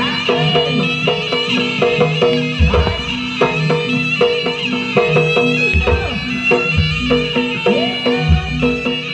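Jaranan gamelan music: a shrill reed-pipe melody over fast repeated metallophone notes and drumming, with deep gong strokes every few seconds.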